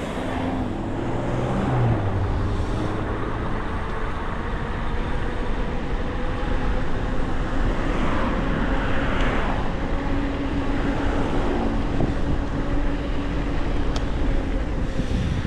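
Road traffic and wind noise heard from a moving e-bike, rising over the first couple of seconds as the bike gets going, then steady, with a faint steady hum.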